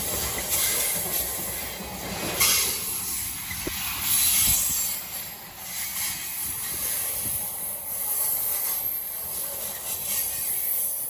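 Covered hopper cars of a freight train rolling past close by: a steady rolling rumble of steel wheels on the rails, with a high hiss and a few louder knocks.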